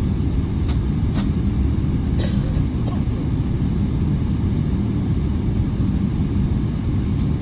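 Steady low rumble of an airliner cabin, with a few faint clicks in the first three seconds.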